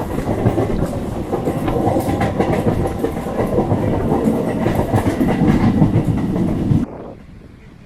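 MEMU electric train running, its wheels clattering over rail joints in a loud, dense rumble. It cuts off abruptly about seven seconds in, leaving much quieter running noise.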